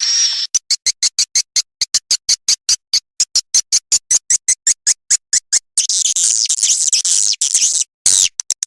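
Swiftlet lure recording: a rapid, even train of high clicks at about eight a second, then a burst of high twittering chirps with a short falling call near the end. It is a looped swiftlet call track played to attract swiftlets into a nest house.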